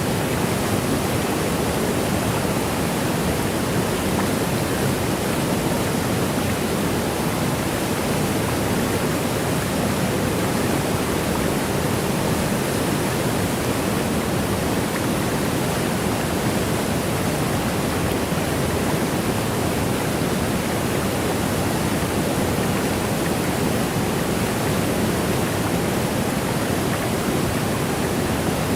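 Waterfall white noise: a continuous, even rush of falling water with no changes or separate sounds.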